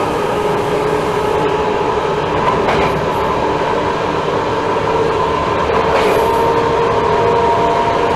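NS class 1700 electric locomotive running, its traction motors giving a steady whine of several tones over the rumble of the train on the rails. A couple of short knocks from the wheels over rail joints come about three and six seconds in.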